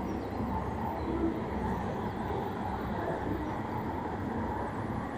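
Steady low rumble and hum of trains standing and moving at a railway station platform, with no single event standing out.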